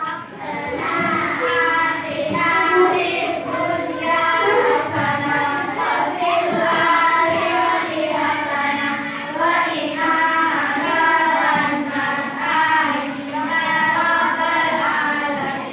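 A group of children singing a song together in sustained, melodic phrases.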